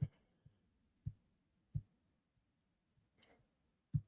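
Four faint, soft, low clicks at uneven intervals from a computer mouse being clicked, with a brief soft rustle a little after three seconds.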